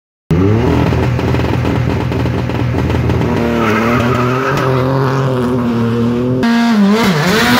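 Rally car engine running and revving up and down. About six and a half seconds in, the sound cuts abruptly to another engine revving.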